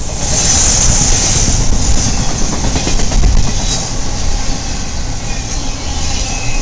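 Intermodal freight train's flatcars carrying highway trailers rolling past close by: a steady loud rumble of steel wheels on the rails, with a high hissing rush that is strongest in the first second or so.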